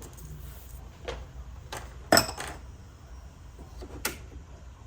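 A handful of light knocks and clicks from objects handled on a work surface, the loudest a little over two seconds in with a brief ring, over a low steady hum.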